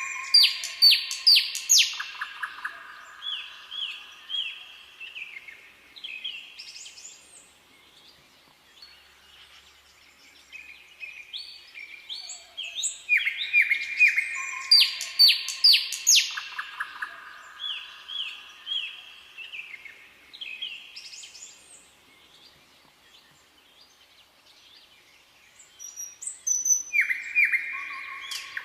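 Songbird singing in long phrases of quick repeated notes that trail off, heard near the start, in the middle and again near the end, with quieter stretches between.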